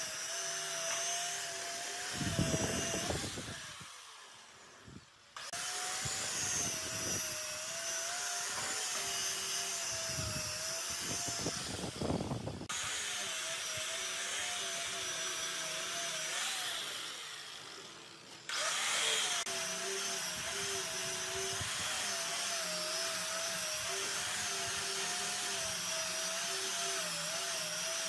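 Electric power tool running steadily on wood, its pitch wavering slightly; twice it fades away and then comes back in suddenly.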